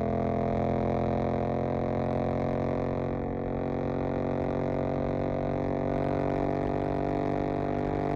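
Suzuki GSX-8S's 776 cc parallel-twin engine heard through a Jeskap EVO aftermarket exhaust, running at a nearly constant engine speed with a steady, deep drone.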